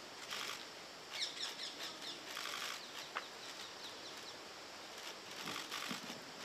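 Small birds chirping faintly in short, scattered bursts over a soft background hiss, with a light click about three seconds in.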